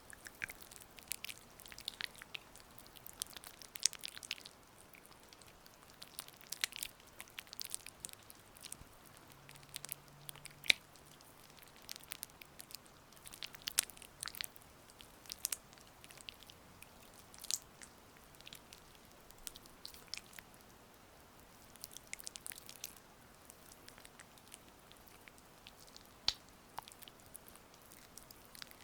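Oiled hands massaging, with irregular sticky, wet clicks and crackles as the palms and fingers press and slide through the oil.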